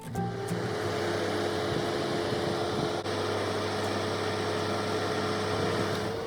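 Tow truck engine running steadily, with a steady mid-pitched whine over it.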